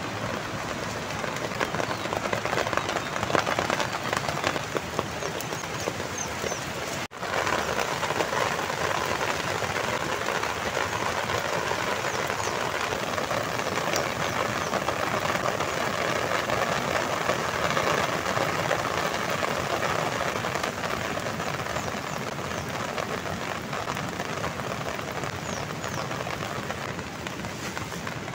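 Steady rain falling, an even hiss, with a brief break about seven seconds in.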